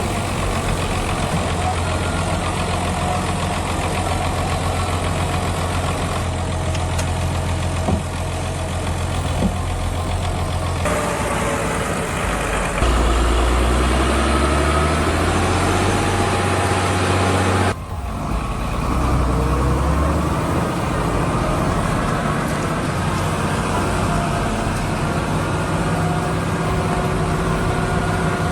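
Tractor diesel engines running, loud and steady with a deep hum. The sound changes abruptly twice, about 11 and 18 seconds in.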